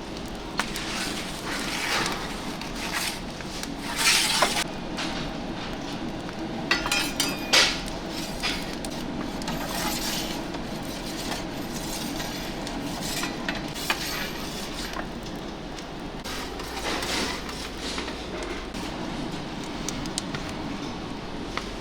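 Kitchen work sounds: dishes and metal utensils clinking and clattering in short bursts over a steady kitchen hum, with the loudest clatters about four seconds in and again around seven seconds in.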